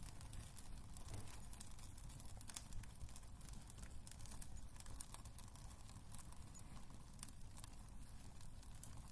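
Wood fire in a fireplace crackling: irregular sharp pops and snaps of burning logs over a low, steady rumble of the flames.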